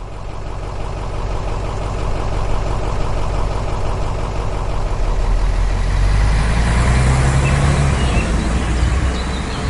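Volkswagen Samba bus's air-cooled flat-four engine running, with a steady low engine note that grows louder over the first couple of seconds and deepens and strengthens a little past halfway.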